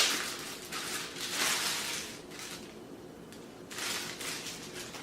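Packaging being handled: a sharp click at the start, then crinkling and rustling in three bursts as the robot vacuum's charging dock is unwrapped.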